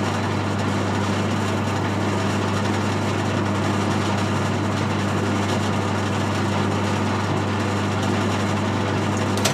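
Metal lathe running steadily during a parting-off cut, a low motor hum under a broad hiss of cutting noise. It starts and stops abruptly.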